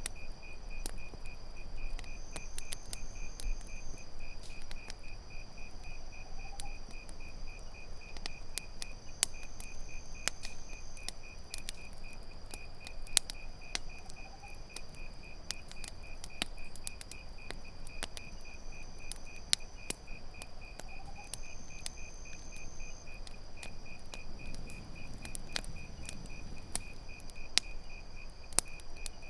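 Campfire crackling in irregular sharp pops over the steady pulsed chirping and trilling of crickets. A faint, short rising bird call repeats about every four seconds.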